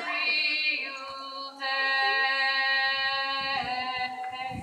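Singing of a slow, mournful song line in long held notes, over a steady low note underneath; the singing changes pitch twice and dies away near the end.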